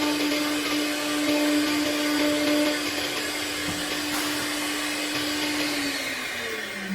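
High-speed spindle of a CNC milling saw running at a steady high pitch with a hiss of cutting through solid wood. Near the end its pitch starts falling as the spindle spins down.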